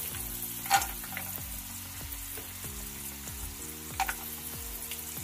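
Peanuts frying in hot oil in a non-stick pan, a steady sizzle, as cashew pieces are dropped in by hand, with a few sharp taps, the loudest about a second in and another near the end.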